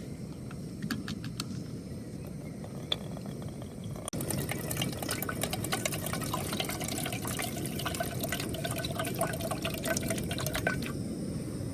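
Water being poured into a container, starting about four seconds in after a quieter stretch of small clicks, with a steady filling tone that stops shortly before the end.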